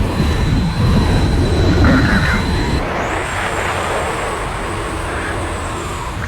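Loud, steady rumble of an airplane in flight, mixed with rushing wind noise, with a faint high whine over it.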